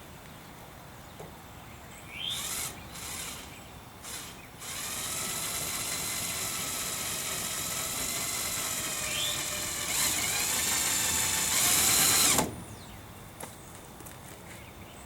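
Handheld electric drill running into the boat door's aluminium frame to set the hinge screw holes: two short bursts, then one long steady run of about eight seconds that grows louder for its last two seconds and stops suddenly.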